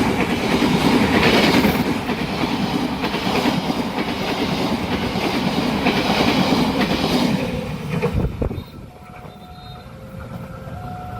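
Train passing close by: a loud rumble with the clickety-clack of wheels over rail joints, which dies away about eight seconds in. After that, steady electronic tones are heard.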